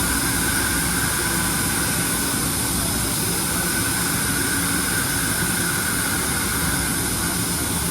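Kan KH-6 CNC deburring washing machine running: a steady mechanical drone with a constant high whine and hiss.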